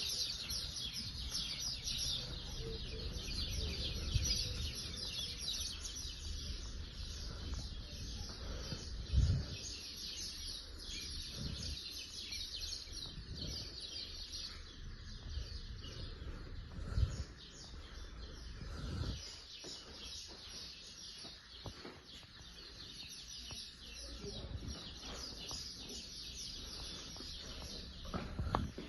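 Small birds chirping busily and continuously, over a low rumble with a few dull thumps.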